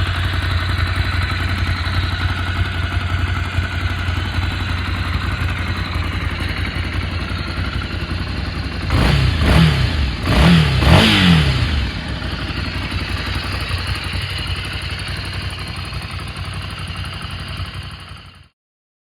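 2019 Ducati Scrambler Classic's 803 cc air-cooled L-twin idling, blipped three times in quick succession about halfway through, each rev rising and falling back to idle. It then idles steadily until the sound cuts off shortly before the end.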